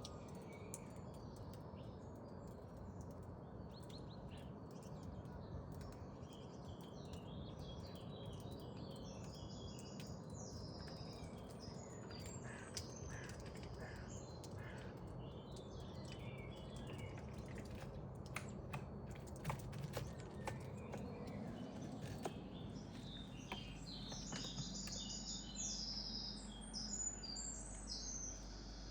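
Birds chirping in quick clusters, with scattered sharp clicks and taps in the middle stretch.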